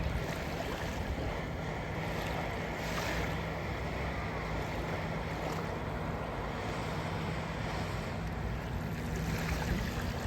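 Sea water washing and wind buffeting the microphone, over a steady low hum.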